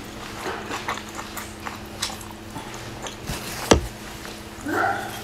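Close-up eating sounds: soft wet chewing and mouth clicks while biting into a soft-skinned dumpling, with one sharp click a little before four seconds in and a short pitched sound near the end.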